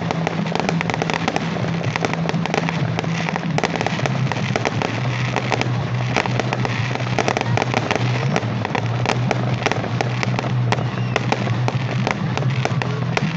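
Fireworks display going off continuously, a dense stream of rapid crackles and pops from bursting shells and crackling stars. A steady low hum runs underneath.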